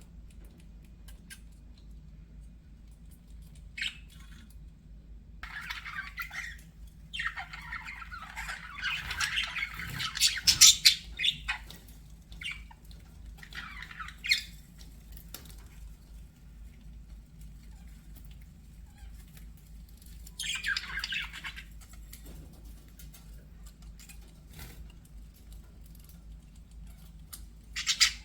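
Budgerigars chattering and squawking in irregular bursts, busiest and loudest around ten seconds in, with quieter gaps of small clicks between.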